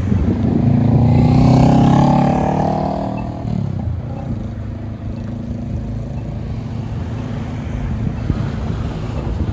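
Transit bus driving past close by, its engine note swelling to a peak about one to two seconds in and fading away by about three and a half seconds, then a steady low traffic rumble.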